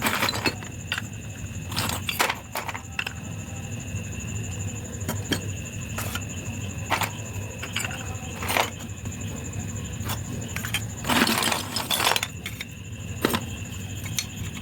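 Crunchy ice cream being bitten and chewed: a dozen or so sharp, crisp crunches at irregular intervals, with a longer burst of crunching near the end, over a steady low hum.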